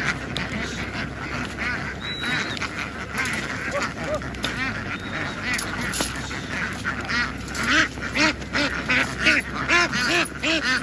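A large flock of domestic ducks quacking in a dense, overlapping din. About two-thirds of the way through, a louder, steady run of quacks, about three a second, rises above the flock.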